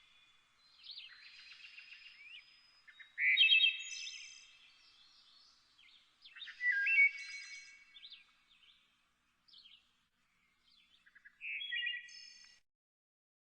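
Birds calling: bursts of short, high chirping calls, loudest in three clusters about three, seven and eleven and a half seconds in, then falling silent near the end.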